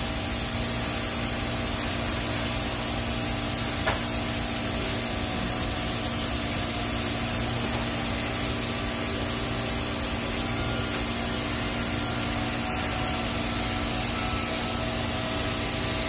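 Steady hiss of a TIG welding arc and its shielding gas during a root pass on stainless steel pipe, over a steady electrical hum, with a single tick about four seconds in.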